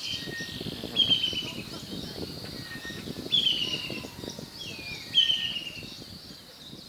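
Buffalo weavers calling: three loud, falling, chattering phrases about two seconds apart over steady higher twittering from the flock.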